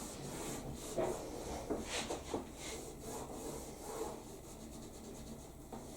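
Quiet, irregular scraping and rubbing strokes of a hand working at a surface, picking or rubbing at stuck-on bits.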